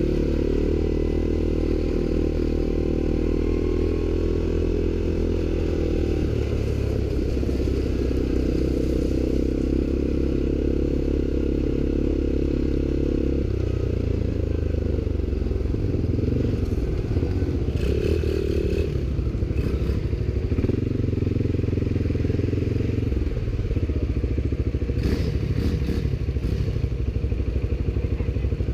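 ATV engine running steadily while riding, its note stepping to a new pitch about six seconds in and again about halfway through. The machine clatters and knocks over rough ground in the second half.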